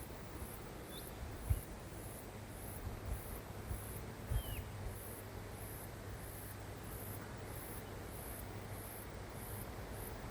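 High-pitched insect chirping in a steady rhythm, about two pulses a second, with a couple of short bird chirps and a few low bumps on the microphone.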